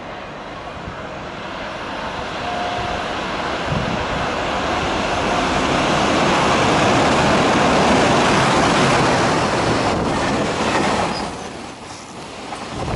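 Freight train hauled by an EH500 electric locomotive passing through a station without stopping. The noise of the locomotive and of wheels on rail grows as it approaches and is loudest about two-thirds of the way through. The wagons then keep rolling past, with a brief dip near the end.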